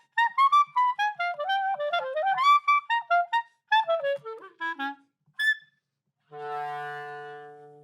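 A clarinet playing quick, short high notes in a bird-like tweeting run, then sliding down in a rapid descending run and giving one high chirp. It then holds one long low note, a cow-like moo that fades away near the end.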